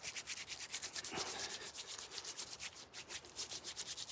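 Wet hands rubbing horse chestnut leaves together briskly, a rapid swishing rub of about seven or eight strokes a second, as the leaves are worked into a soap-like lather.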